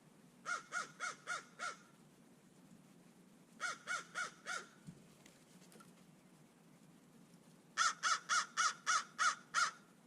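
Crow cawing in three runs of harsh, evenly spaced caws: five, then four, then a longer run of eight near the end.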